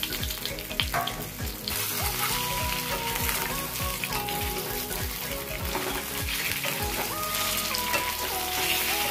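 Steamed rice-flour balls sizzling in hot tempering oil with mustard seeds and dals in a steel kadai as they are stirred with a wooden spatula. A background music track with a held melody and a steady beat plays over it.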